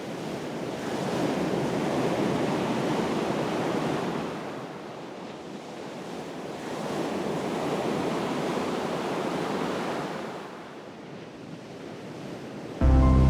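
Lake waves surging on the shore with wind, rising and falling in two long swells. Music comes in suddenly near the end.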